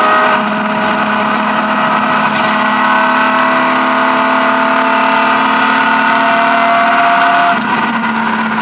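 BMW E36 M3 rally car's straight-six engine pulling hard under load, heard from inside the stripped cockpit; its note climbs slowly and steadily, then drops near the end as the revs fall.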